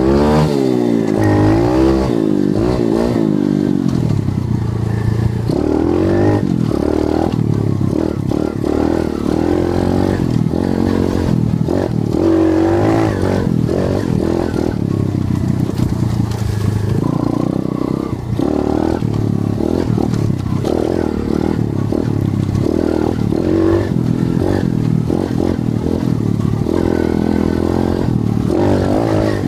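125cc CRZ dirt bike engine being ridden, its pitch rising and falling again and again as the throttle is opened and closed, with the odd rattle from the bike.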